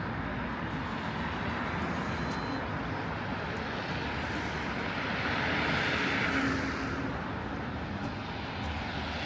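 Street traffic running steadily, with one vehicle passing close by, its noise swelling and fading about halfway through.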